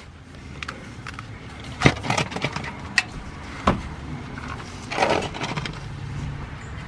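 A wrench working the 14 mm oil drain plug on a Subaru 2.5L engine's oil pan: a few irregular metal clicks and knocks over a steady low hum.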